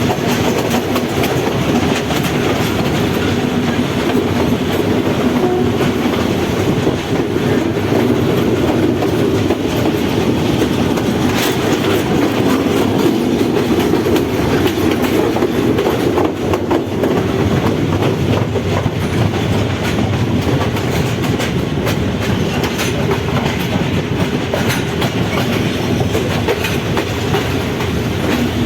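Passenger train running steadily along the track, a continuous rumble with the wheels clicking and clacking over the rail joints.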